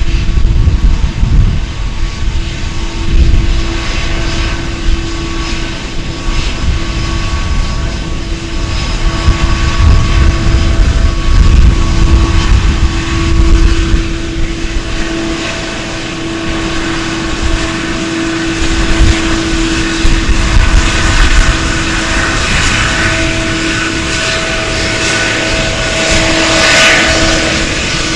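Airplane engines running: a steady drone with one constant tone over a low rumble, growing noisier and brighter in the last several seconds as the aircraft comes closer.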